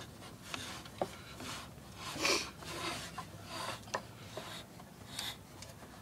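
Irregular rubbing and scraping with a few light clicks, from hands and tools working the nut and parts of a homemade supercharger impeller.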